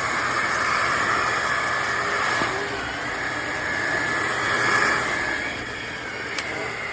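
Shark HydroVac MessMaster WD261 cordless wet-dry vacuum mop running: a steady motor whine over a hiss. It eases off a little after about five and a half seconds, and there is a brief click near the end.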